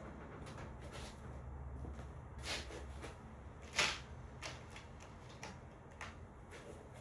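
Handling sounds of hands working wiring inside a cabinet: scattered light rustles and small clicks, with one sharper knock about four seconds in, over a low hum that fades out about three seconds in.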